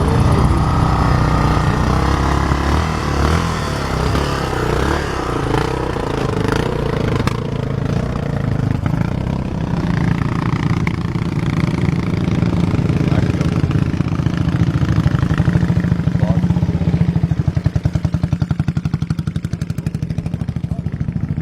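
Motorcycle engines running. In the second half one settles into a steady, rapid low pulsing idle that is loudest.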